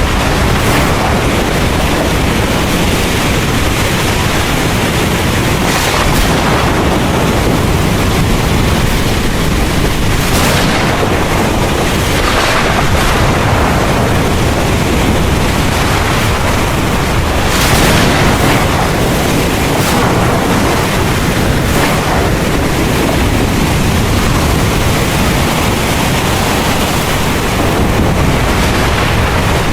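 Heavy rain pouring steadily, with a deep rumble of thunder underneath. The rush swells louder briefly a few times, most clearly about ten and eighteen seconds in.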